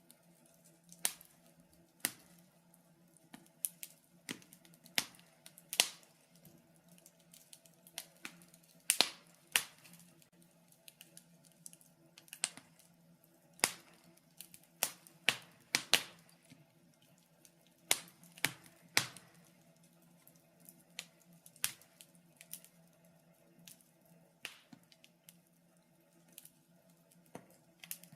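Wood fire crackling in a fireplace: irregular sharp pops and snaps, about one or two a second with a few louder ones, over a faint steady hum.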